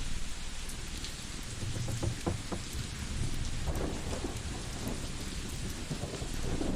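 Layered ambience: a steady rain-like hiss with scattered crackles of a wood fire and a deep low rumble that swells a few times.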